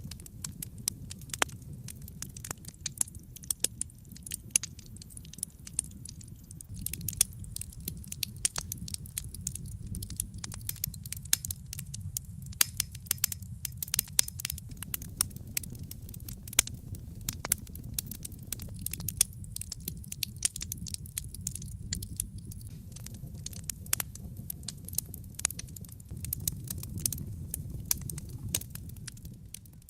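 Wood fire burning in a fireplace: a steady low rumble of the flames with frequent sharp crackles and pops, some much louder than the rest.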